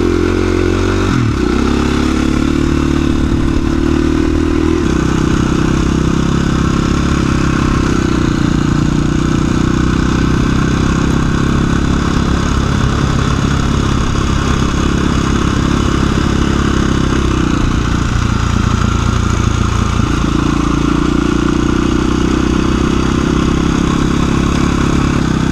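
A 2017 KTM 350 EXC-F dual-sport bike's single-cylinder four-stroke engine running under way. Its note steps up and down several times with throttle and gear changes.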